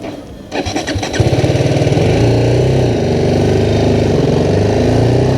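BMW G310R's single-cylinder engine cranks briefly and catches about a second in, then runs loudly, its pitch rising and falling as the motorcycle moves off.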